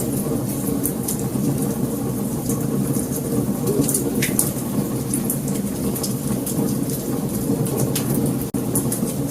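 Wood fire crackling, with frequent sharp pops and snaps over a steady low roar of flames. The sound drops out for an instant near the end.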